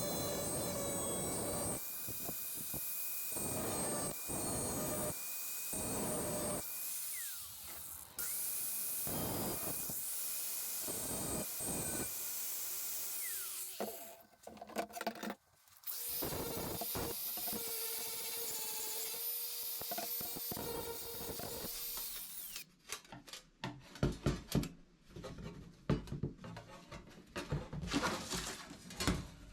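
A power tool cutting thin stainless steel sheet in several runs with short pauses. Near the end it gives way to irregular scraping and clicking of hand work on the metal.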